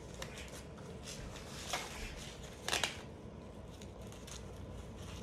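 Blood pressure cuff being wrapped around the upper arm: two short fabric rustles, the first a little under two seconds in and the second about a second later.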